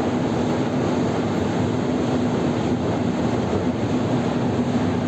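Train running, a steady loud rumble with a constant low hum.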